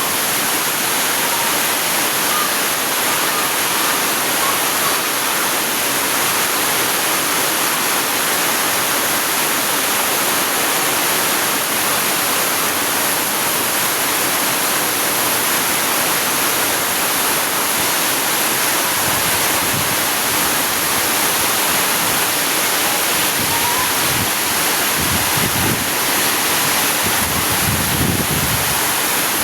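Heavy rain pouring down in a steady, loud hiss. From about two-thirds of the way in, gusts of strong wind add low rumbling buffets on the microphone.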